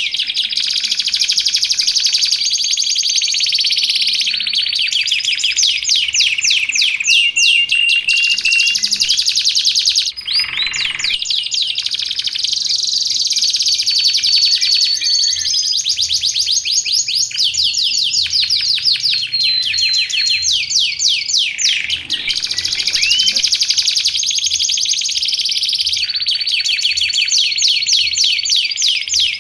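Canary singing a long continuous song of rapid trills, held whistles and quick sweeping notes, with short breaks about ten seconds in and again after twenty seconds.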